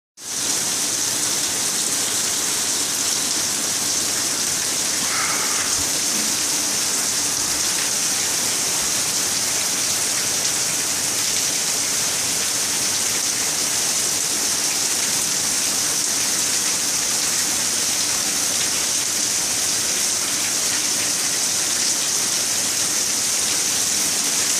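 Heavy rain pouring down steadily, coming down in buckets.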